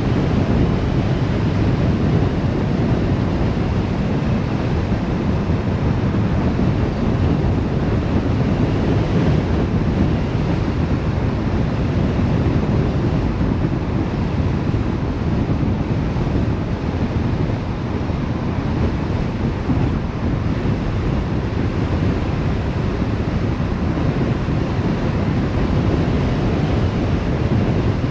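Steady rumble and rush of a car driving: road and wind noise, heaviest in the low end and unchanging throughout.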